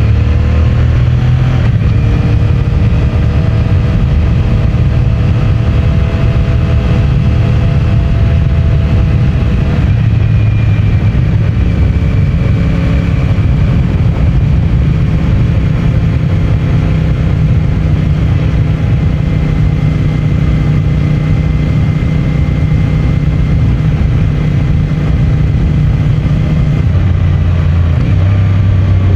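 CFMOTO 450MT's parallel-twin engine through its stock exhaust, running under way. It pulls up through the revs in the first second or two, then holds a steady cruise over a low rumble of road and wind noise. The engine note changes near the end.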